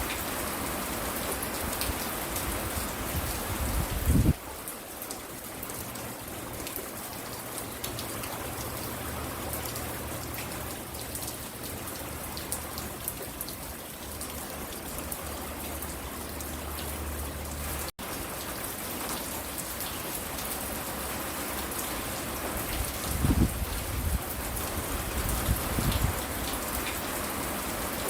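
Steady rain falling and pattering on surfaces, with a low rumble swelling briefly about four seconds in and again near the end. The sound cuts out for an instant about two-thirds of the way through.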